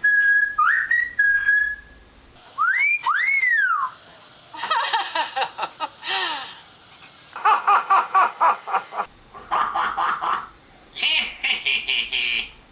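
Hill myna whistling and calling: a few short rising whistles, then two high arching whistled glides, then bursts of rapid repeated notes and chattering.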